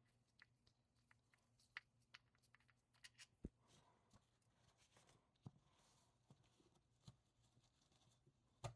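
Near silence with faint, scattered clicks and light taps, like small metal bolts and tools being handled; a few ticks stand out, one about three and a half seconds in and one near the end.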